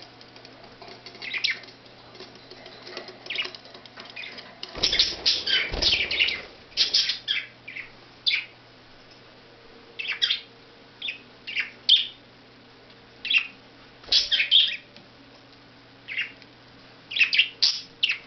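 Pet budgerigars chirping in short, scattered bursts, with a dense flurry about five seconds in and another shorter one near fourteen seconds that carry a low rumble as well.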